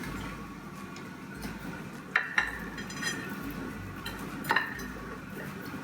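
Metal tongs clinking against a serving dish as pieces of tandoori chicken are moved onto it: two sharp clinks in quick succession a little over two seconds in, and another about four and a half seconds in.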